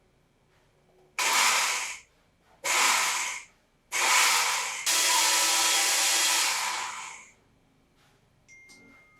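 A small electric appliance runs in three bursts of steady rushing noise: two short ones of under a second, then a longer one of about three seconds that fades out.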